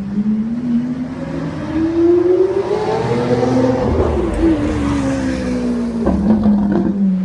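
A supercar accelerating past: its engine note climbs steadily for about three and a half seconds, peaks as the car goes by about four seconds in, then drops and eases off.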